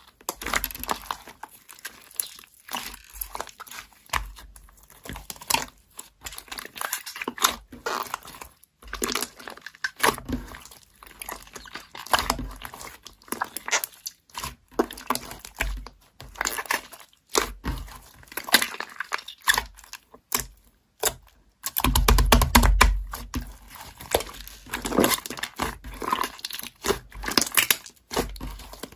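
Slime being squished, pressed and poked by hand, making irregular sticky crackles and pops. There is a louder, deeper squelching stretch about 22 seconds in.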